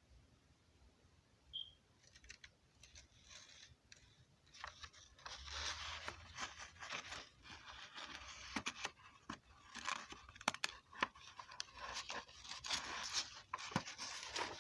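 Rustling and scraping, like something being handled, broken by many sharp clicks. It starts about two seconds in and grows busier from about five seconds.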